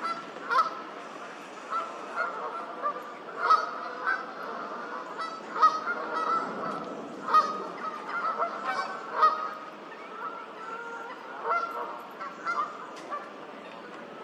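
A group of geese honking: many short, repeated honks at an irregular pace, some louder than others.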